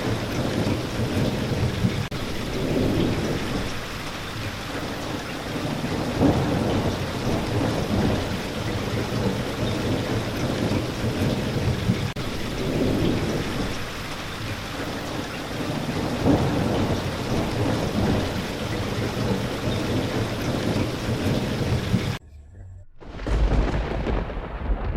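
Steady rain of a thunderstorm with low rolling thunder swelling every few seconds. About 22 seconds in the sound cuts off abruptly, and a loud low thunder rumble then starts and fades over the quieter rain.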